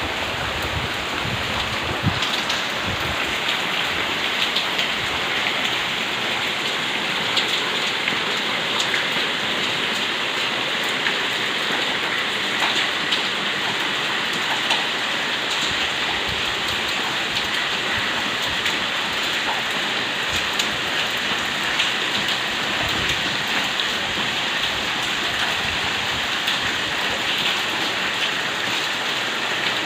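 Heavy rain falling steadily, with many sharper individual drop hits scattered through the even hiss.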